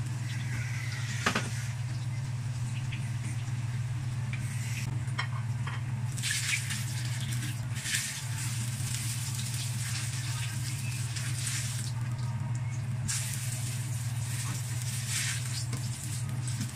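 Eggplant slices frying in oil in a nonstick wok, sizzling in several waves as they are turned and lifted out, with a sharp utensil clink about a second in. A steady low hum runs underneath.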